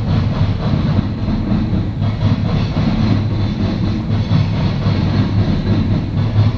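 Norfolk Southern coal train's hopper cars rolling past: a steady, loud, low rumble, with wheels clacking over the rail joints.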